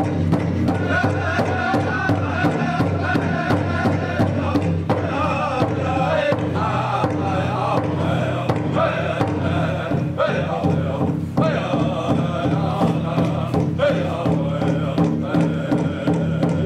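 Group of voices chanting over a steady drumbeat, about two to three beats a second.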